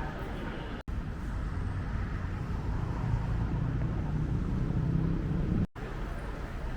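Steady low rumble of road traffic, growing a little louder toward the middle, cut by two brief silent gaps, about a second in and near the end.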